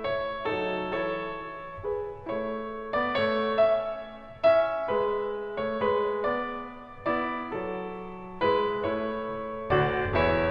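Background music: a gentle piano melody of single struck notes, each fading after it is played, over a low bass line, with a fuller chord passage near the end.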